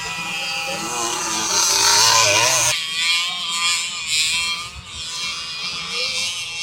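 Small 50cc two-stroke motocross bikes racing, their engines revving up and down in pitch. The sound changes abruptly about three seconds in.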